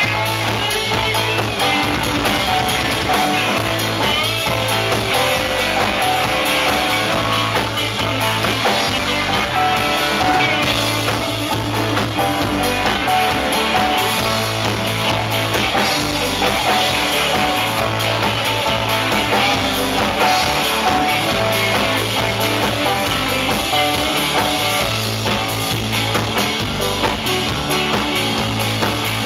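Rock music with electric guitar, bass and drum kit playing a steady beat.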